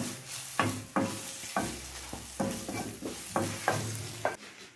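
Spring onions sizzling in oil in a stainless steel frying pan as a wooden spoon stirs and scoops them out. A series of about eight sharp knocks and scrapes of the spoon against the pan sits over the frying hiss.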